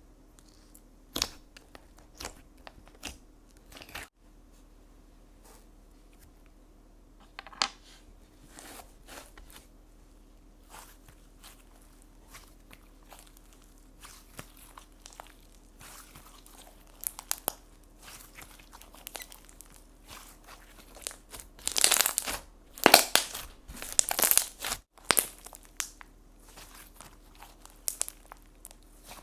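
Slime being squeezed and stretched by hand, giving scattered crackles and pops. The sound turns denser and louder a little over three-quarters of the way through.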